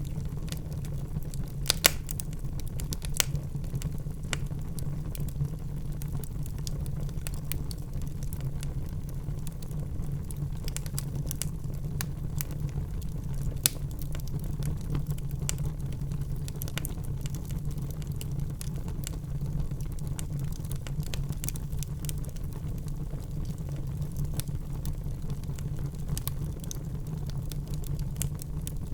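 Wood fire in a fireplace burning with a steady low rumble of flames and scattered sharp crackles and pops from the logs, a few louder pops at about 2, 3 and 13 seconds in.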